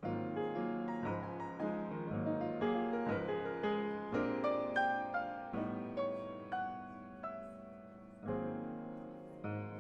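Piano playing a slow, hymn-like piece: chords struck about every half second and left to ring and fade, with a fuller chord struck again about eight seconds in.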